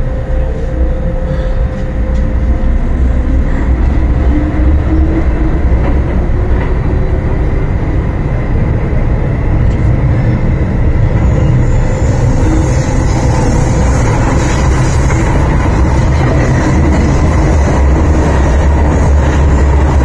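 Inside a Hong Kong MTR M-Train electric multiple unit as it accelerates away from a station: a motor whine rises in pitch over the first several seconds above a steady rumble of wheels on rail. The running noise grows hissier about halfway through as the train gathers speed.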